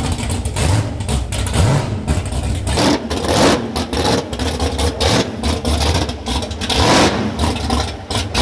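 Drag Pak 354 drag car's V8 running rough and being revved in several blips, with many sharp pops and cracks from the exhaust.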